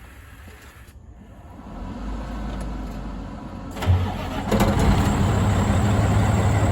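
Caterpillar C12 inline-six diesel cranked by its starter for about two seconds, catching a little under four seconds in with a sudden loud burst, then settling into a steady idle.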